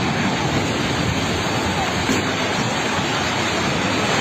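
A steady, loud rushing noise with faint voices underneath.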